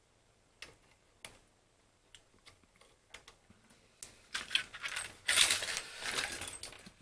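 Small hard plastic parts being handled: a few separate light clicks, then from about four seconds in a busier run of clicking and rattling.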